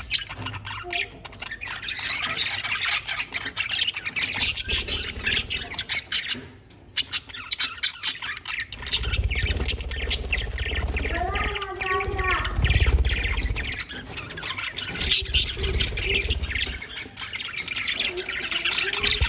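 Pet budgies chattering and squawking in fast, high, continuous warbles and chirps, with a low rumble partway through.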